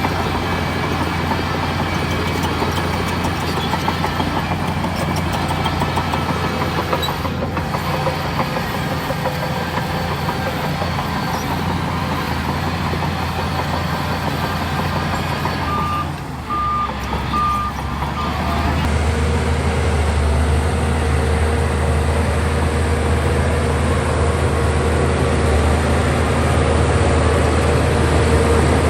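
Heavy diesel engines of earthmoving machinery running steadily, with three short beeps about sixteen seconds in. About nineteen seconds in the engine note changes and grows a little louder.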